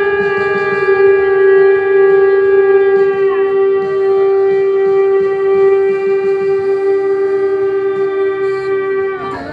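Shofar blown in one long, loud, steady note held for about nine seconds and cut off just before the end, with other horn tones sliding in and out alongside it.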